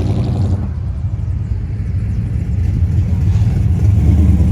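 Car engine running low and deep as the car drives slowly past, growing louder near the end as it comes closer.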